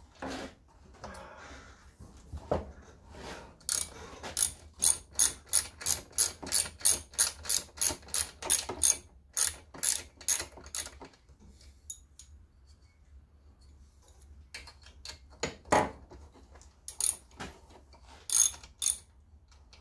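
Ratchet wrench clicking in quick runs of sharp clicks, about three or four a second, as fasteners on a chainsaw are worked loose; the clicking stops for a few seconds midway, then resumes with a single heavier knock.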